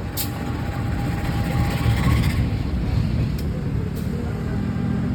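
Low, steady rumble of a train passing, with a few sharp clicks.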